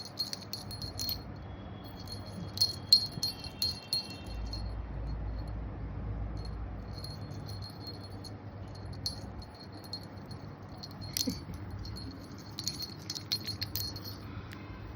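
Small metal jingling and tinkling, shaken in irregular spurts with little clicks, over a faint steady hum.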